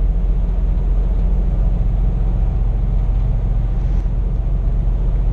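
Scania P420 truck under way, heard from inside the cab: a steady low engine drone with road noise.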